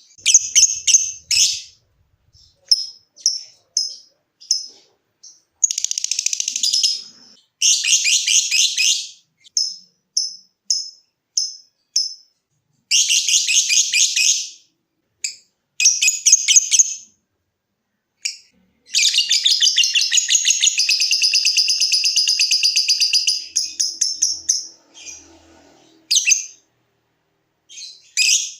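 Lovebird calling: runs of short, sharp chips (the "ngetik" call) alternating with rapid, rattling trills (the "ngekek" call). The longest trill lasts about four and a half seconds, starting about two-thirds of the way in.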